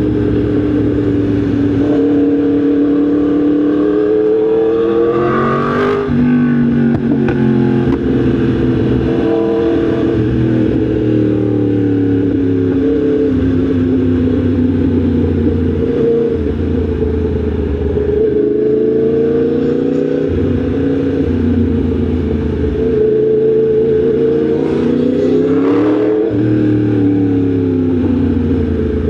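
Yamaha MT-10 SP's crossplane inline-four engine running under way, its note rising and falling with the throttle. Twice, about six seconds in and again near the end, the revs climb and then drop suddenly.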